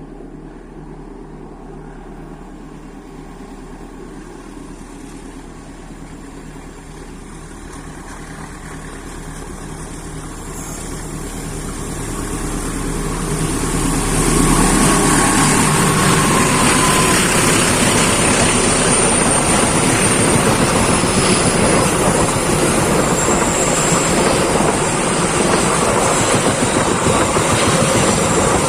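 A diesel-hauled train approaching and passing close by: the locomotive's engine hum grows louder over about fourteen seconds, then the steady loud noise of the train running past on the rails fills the rest.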